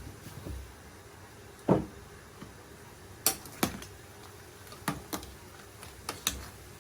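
Kitchen utensils and cookware knocking and clinking: about seven short, separate knocks spread over several seconds.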